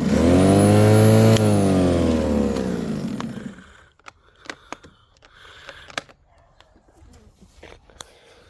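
Electric lawnmower motor switched on and running for about a second and a half, then released and spinning down, its pitch falling as it fades out over the next two seconds. Faint clicks and knocks follow.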